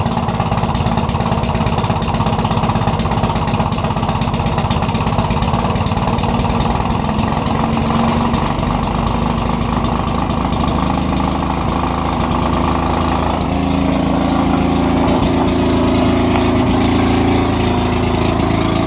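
Maytag Model 72 two-cylinder two-stroke washing-machine engine running out of gear just after a cold start, the first run since summer. It fires in a fast, even rhythm, and its note changes about two-thirds of the way through.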